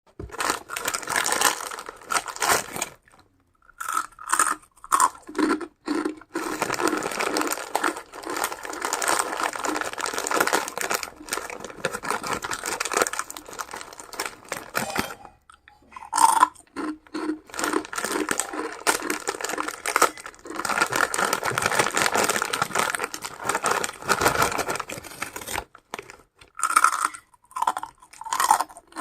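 A person eating close to the microphone: crunching and chewing food in long noisy stretches broken by short pauses.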